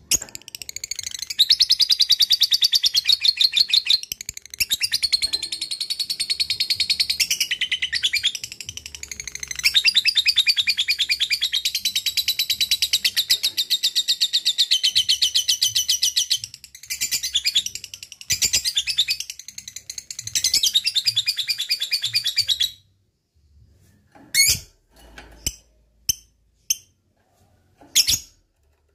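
Lovebird singing its long, very rapid chattering trill ('ngekek'), near-continuous for over twenty seconds with a few short breaks. The trill ends, followed by a handful of short, separate chirps.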